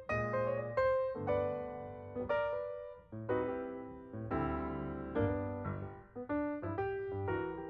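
Background piano music: gentle chords struck about every half second to a second, each dying away.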